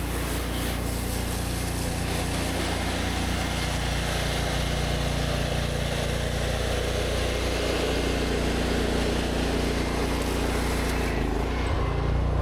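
An 8 gpm pressure-washing rig's engine running steadily, with a steady hiss of high-pressure water spray over it.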